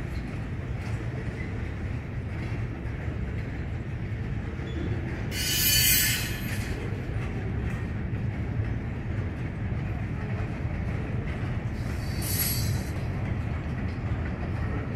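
Norfolk Southern freight train's boxcars and covered hoppers rolling past, a steady low rumble of wheels on rail. Two brief high-pitched wheel squeals cut in, the first and louder one about five seconds in, the second about twelve seconds in.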